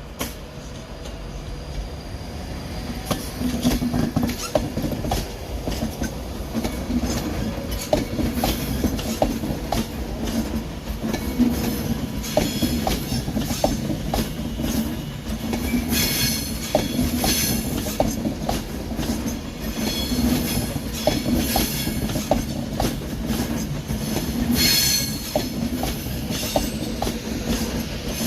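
A train rolling slowly over pointwork: a rapid, irregular run of wheel clicks over rail joints and crossings over a low rumble, with several bursts of high wheel squeal in the second half. A brief rising whine at the start, and the sound grows louder over the first few seconds.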